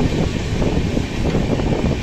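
Running noise of a moving passenger express train heard from aboard, with wind buffeting the microphone. A steady, loud low rumble.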